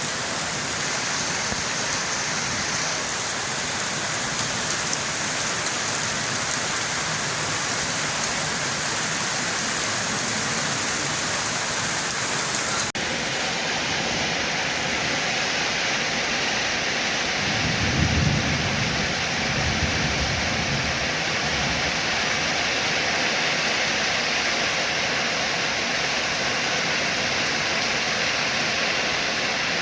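Steady heavy rain hiss. Partway through, the top of the hiss changes abruptly. A brief low rumble of thunder comes about two-thirds of the way in.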